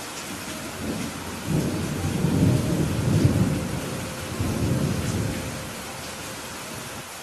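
Steady rain with a roll of thunder: a low rumble builds about a second and a half in, peaks around the middle and fades away before the end.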